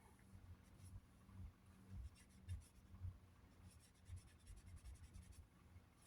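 Near silence with faint, scattered scratching and rubbing handling sounds and a few soft low thuds.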